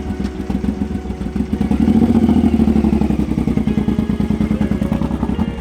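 Motorcycle engine running under way. It gets louder about two seconds in, then slowly eases off.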